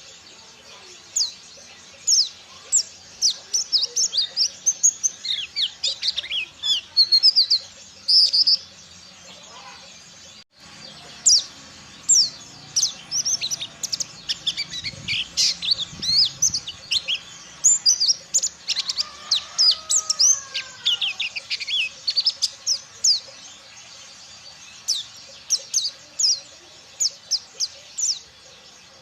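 A pleci (white-eye) singing a fast, varied song of high, sharp chirps and trills in rapid runs, the full wild-style 'ngalas' song, with a brief break about ten seconds in.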